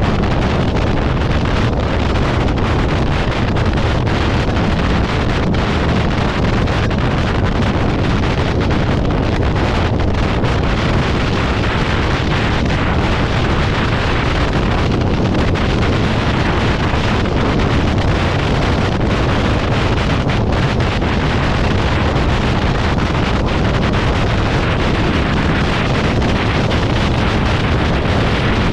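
Steady loud wind rumbling and buffeting on the microphone.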